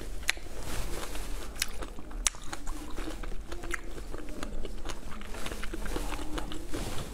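Close-miked chewing of a strawberry sweet from a skewer: wet mouth sounds broken by sharp crackles and clicks as it is bitten and crushed.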